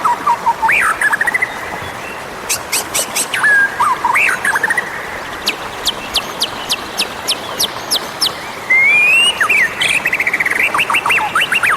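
White-rumped shama singing: varied whistled phrases that glide up and down, mixed with runs of sharp ticking notes, over a steady background hiss.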